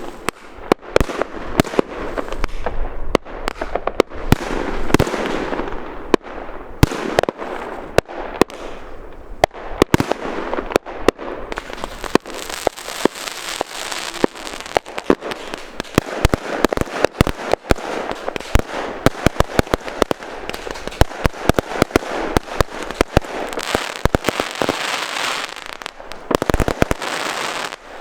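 New Year's fireworks going off: many sharp bangs and pops in quick succession, with dense crackling building from about halfway through and dying down just before the end.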